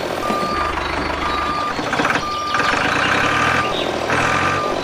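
Reversing alarm beeping: a single steady mid-pitched tone repeating about once a second, with short patches of hiss between some of the beeps.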